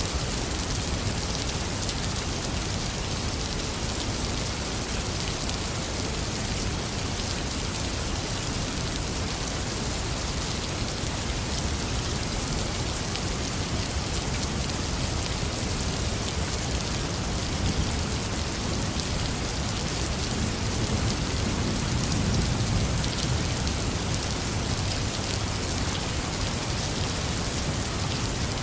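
Heavy rain falling steadily, with a low rumble of distant thunder swelling about two-thirds of the way through.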